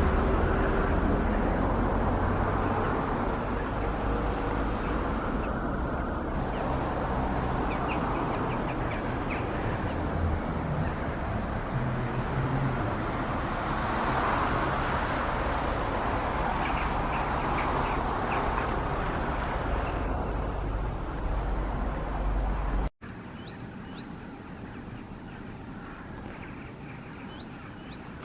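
Steady city traffic rumble with scattered bird calls over it. About 23 seconds in, the sound cuts abruptly to a quieter background with a few short, high bird chirps.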